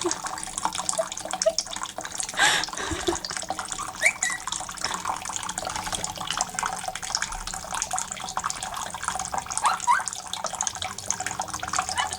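Water running steadily and splashing while a Quaker parrot bathes in it, with a few brief rising squeaks.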